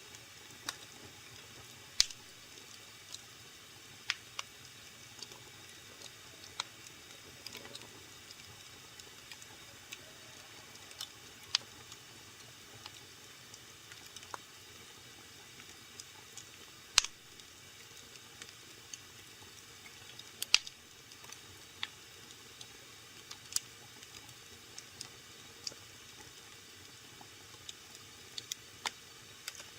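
Wood fire crackling in a fireplace: irregular sharp pops and snaps over a low steady hiss, with a handful of much louder pops among the small ones.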